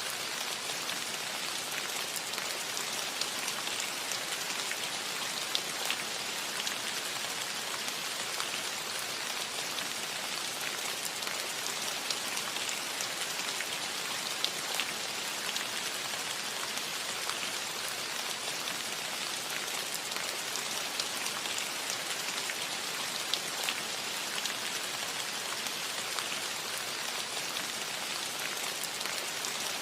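Steady rain falling on a roof: an even hiss with many fine drop ticks scattered through it.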